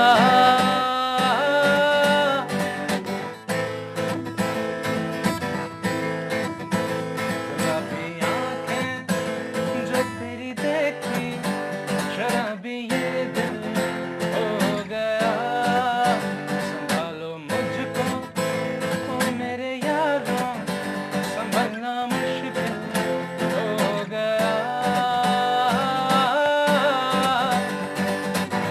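Acoustic guitar strummed and picked, accompanying a sung Hindi film song, with a voice singing at moments.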